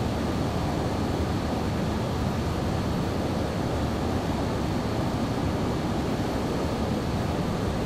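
Steady engine and airflow noise of a Boeing 737-800 with its CFM56-7B turbofans, an even rumble with a faint high whine above it.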